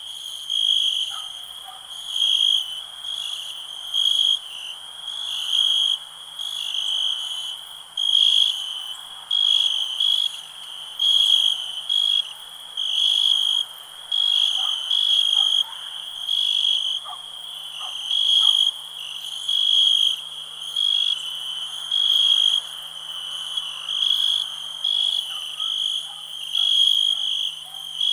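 Crickets chirping: a high, shrill trill pulsing in a steady, repeating rhythm a little more than once a second, with fainter, lower calls scattered behind it.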